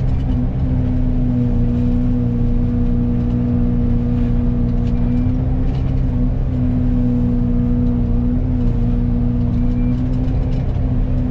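Excavator's diesel engine and hydraulic Fecon forestry mulcher head running steadily, a constant loud hum whose pitch dips slightly a few times.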